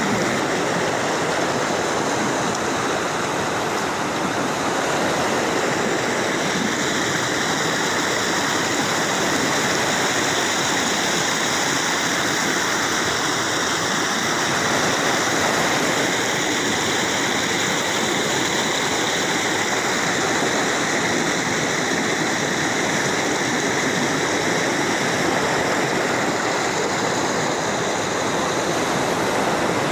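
Waterfall, its water rushing and splashing steadily without a break.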